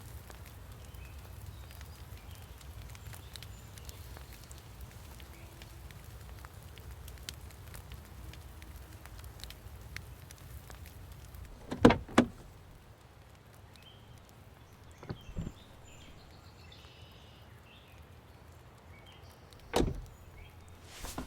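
Sharp knocks in short groups: a loud double knock about twelve seconds in, a softer pair a few seconds later and a single knock near the end, over a low rumble that fades after the first knocks.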